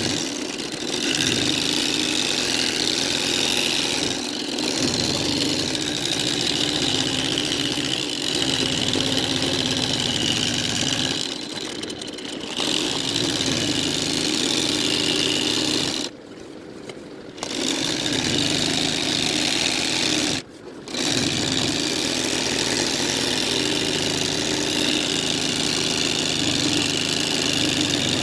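Embroidery machine running and stitching, stopping briefly twice past the middle.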